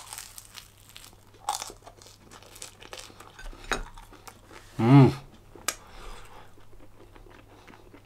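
A bite into a crisp baked flatbread, then chewing with irregular crunches and crackles. A closed-mouth "mmm" comes about five seconds in.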